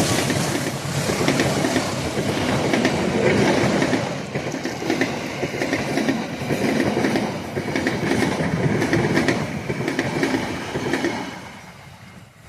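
A train passing close by, its wheels clattering over the rail joints in a steady rhythm, the noise falling away near the end as the last cars go by.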